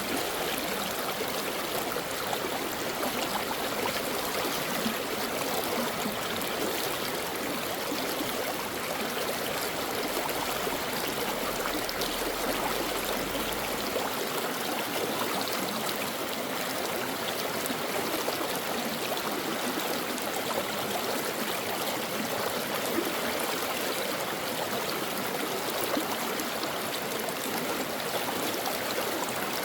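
Brook water flowing steadily: an even, continuous rush of running water.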